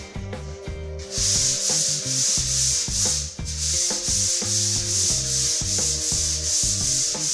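Hand sanding block with sandpaper rubbed back and forth over dried wall putty. It starts about a second in as rhythmic scraping strokes, about two a second, over background music.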